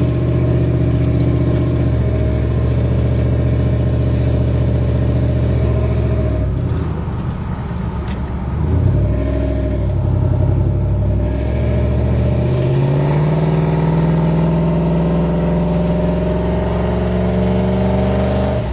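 2007 Ford F-150 pickup's engine and exhaust under way at low speed, easing off briefly about a third of the way in, then accelerating with a steadily rising pitch over the last several seconds.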